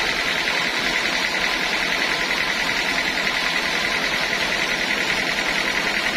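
Sawmill saw machinery running steadily on teak wood: a continuous high whine over a dense mechanical noise, with a fast even pulsing.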